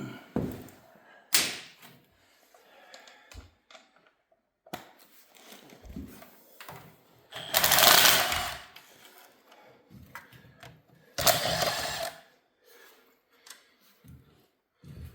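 Work on a Chevy 350 engine being torn down: scattered knocks and clinks of metal parts and tools, with two bursts of a rattling power tool, about a second each, near the middle and about three-quarters of the way through.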